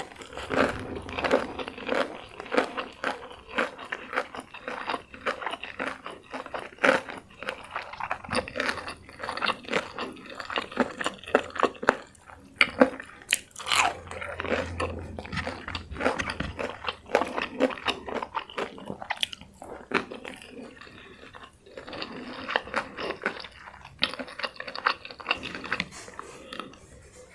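Close-miked biting and chewing of crunchy food from a crispy fried chicken and raw salad meal: a steady run of sharp crunches and crackles, with a couple of brief pauses.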